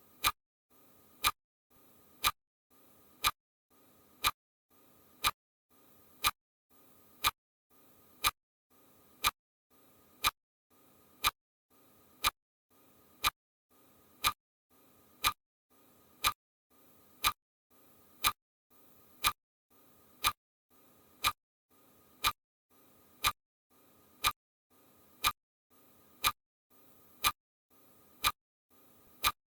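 Steady, even ticking: one sharp tick about every second, each followed by a faint softer sound, keeping a perfectly regular beat.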